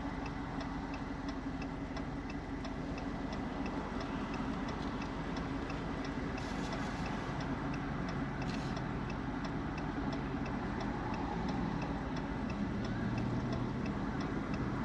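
A car's turn-signal indicator ticking steadily, about two to three ticks a second, over the low, steady hum of the car's cabin as it idles or creeps along.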